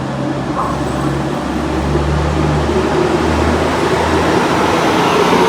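Diesel train running at a station, a steady low engine hum with a broad rushing noise that builds slightly toward the end.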